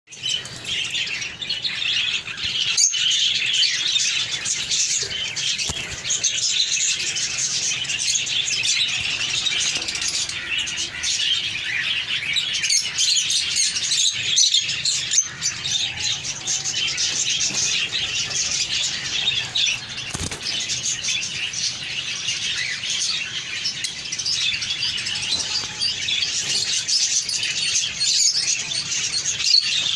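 A flock of small pet parrots chattering and chirping continuously, many high chirps overlapping.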